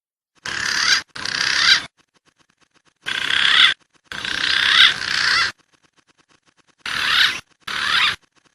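Recorded wild pigeon calls played back as a trapping lure: whistling, warbling calls in six short bursts, grouped in pairs, each starting and stopping abruptly.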